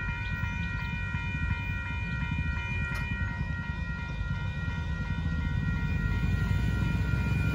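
A freight train of auto-rack cars rumbling past a road crossing, getting a little louder near the end, while the crossing bell rings steadily above it.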